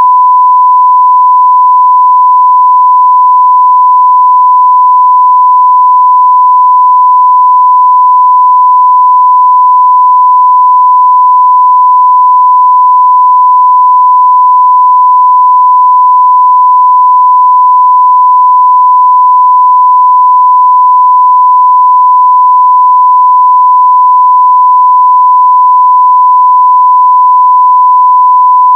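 Steady, unbroken 1 kHz sine-wave test tone at full scale (0 dB), a single pure pitch.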